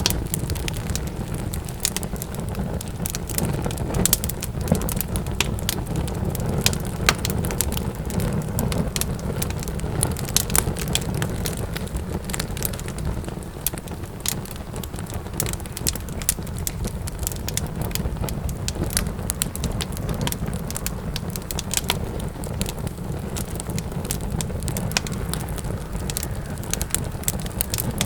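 Wood fire crackling, with frequent irregular sharp pops and snaps over a steady low rumble of the burning logs.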